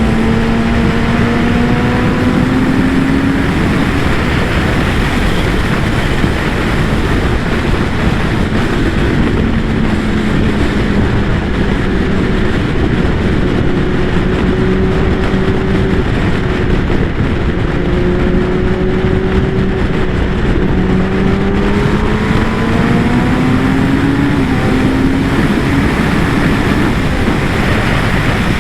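Kawasaki ZX-10R inline-four sport bike engine under way, heavily masked by loud wind noise from the ride. The engine note climbs in the first few seconds, eases off and holds steady, then climbs again near the end before dropping.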